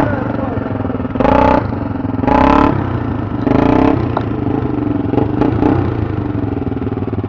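A motorcycle engine idling steadily, blipped three times with short twists of the throttle in the first few seconds.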